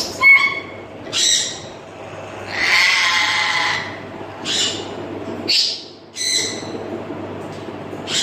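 Grey parrots calling: a run of short whistles and squawks, with one long harsh screech about three seconds in.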